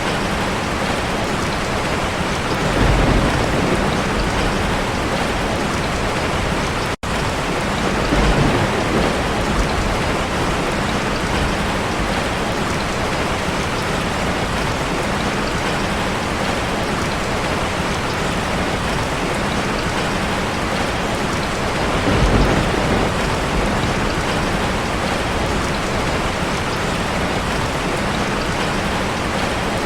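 Steady rushing water of a waterfall, a dense even hiss with a few short low rumbling swells. The sound cuts out for an instant about seven seconds in.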